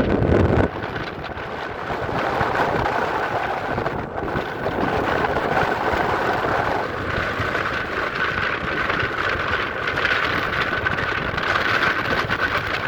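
Wind blowing across the microphone, with the steady high whine of a small engine running throughout, growing stronger in the second half.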